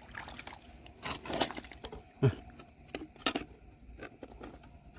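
A few sharp clinks and knocks of rocks striking one another as they are handled, spaced about a second apart.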